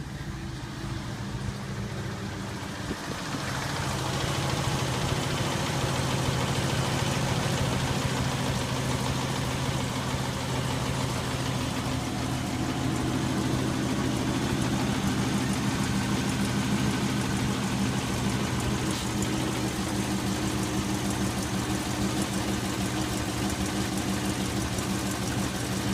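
Ford 239 Y-block V8 in a 1954 F100 pickup idling steadily. It gets louder about three seconds in and holds there.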